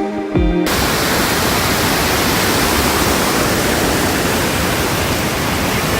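Background music cuts off abruptly about half a second in, giving way to the steady rush of a waterfall.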